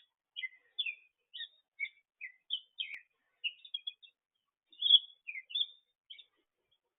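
A songbird chirping: a quick series of short, varied high chirps and whistled notes, about two a second, the loudest about five seconds in, then stopping shortly before the end.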